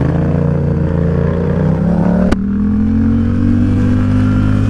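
Yamaha XSR700's 689 cc parallel-twin engine accelerating away, its note rising. About halfway through there is a sharp click as the bike shifts up a gear, and the engine pitch drops a little, then climbs again.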